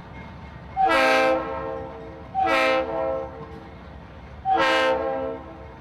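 Diesel locomotive air horn on a Norfolk Southern freight sounding three blasts, each a chord of several tones under a second long, over a steady low train rumble.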